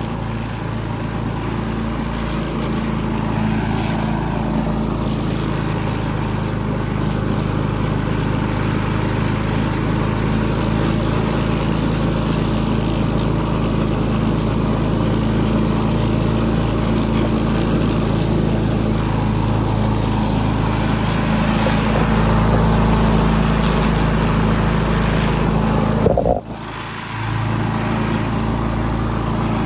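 Small single-cylinder push-mower engine running steadily at a set throttle while mowing, with a brief drop near the end. It runs well now that the head gasket has been replaced.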